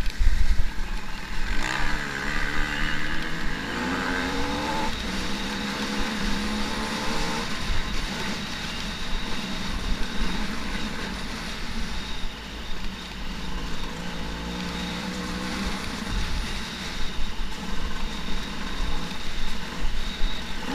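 Enduro dirt bike engine running on a muddy trail, revving up with a rising pitch about two seconds in and again about two-thirds of the way through, over a steady rushing noise.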